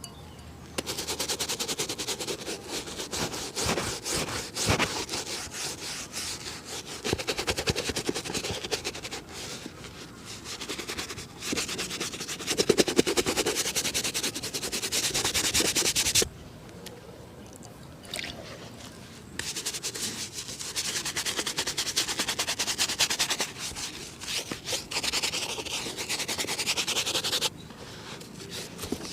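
A shoe being buffed in a shoe shine: fast, steady rubbing on the leather in two long spells. It breaks off about 16 seconds in and starts again a few seconds later.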